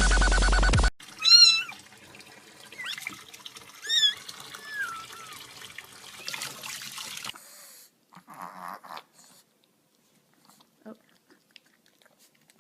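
A cat meowing several times, loud calls that bend in pitch, after electronic music cuts off about a second in.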